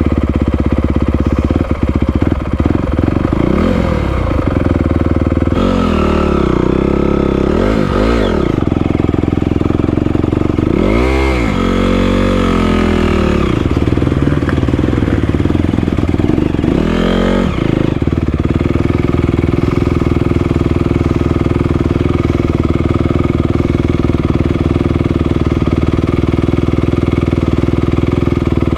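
Four-stroke dirt bike engines running, one held at a steady idle while revs rise and fall in several throttle blips during the first two-thirds. The blips come as the rider tries to power out of a rut. Only the steady running is left near the end.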